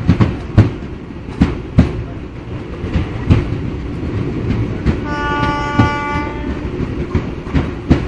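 Passenger train coaches running at speed, heard from the open doorway: a steady low rumble with the wheels clicking over rail joints. About five seconds in, the train's horn sounds once for about a second and a half.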